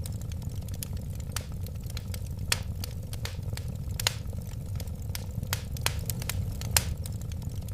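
Wood fire burning: a steady low rumble of flames, with irregular sharp crackles and pops, a few of them louder.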